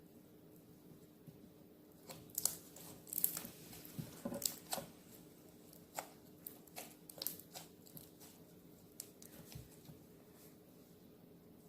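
Handmade glitter slime being played with by hand: a run of irregular sticky clicks and crackles, starting about two seconds in and thinning out toward the end.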